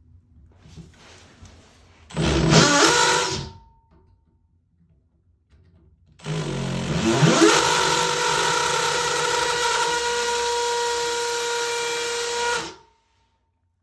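Hammer drill drilling into a cast iron toilet flange: a short run, then a longer run of about six seconds. Each time the motor winds up in pitch and then holds a steady whine. The bit makes little headway in the cast iron.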